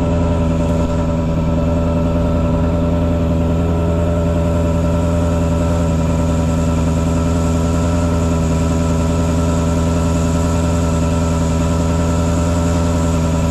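Engine of a mosquito-fogging truck running at a constant speed, a steady drone that does not change.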